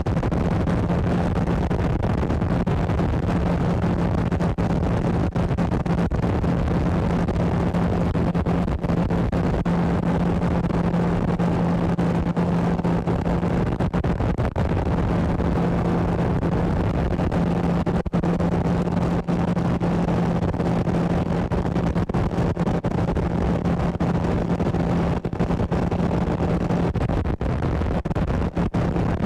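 Motorboat engine running steadily underway, a constant low drone over the rush of water and wind.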